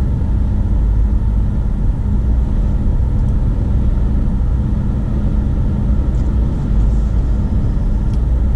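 Steady road noise inside a moving car's cabin at highway speed: a constant low rumble of tyres and engine with a steady drone.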